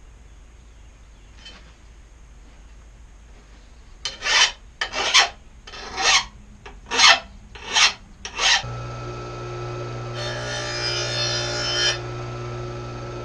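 A file rasping across a mower blade's edge in about six quick strokes. A steady electric motor hum then starts, with about two seconds of harsher grinding noise over it.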